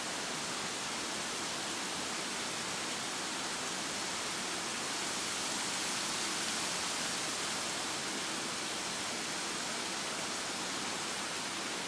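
Waterfall's falling water making a steady, even rush that swells a little partway through.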